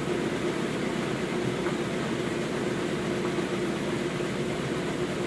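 Maytag MVWC465HWO top-load washer running its spin cycle: a steady, fairly quiet motor and pump hum with an even whirring noise over it.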